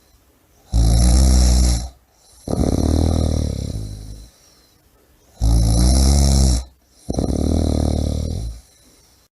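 A person snoring heavily: four loud, rasping snores, each about a second or more long, coming in two pairs with short quiet breaks between.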